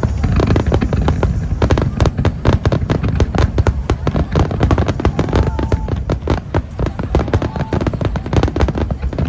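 Aerial fireworks display going off in a rapid, unbroken string of bangs and crackles, several a second.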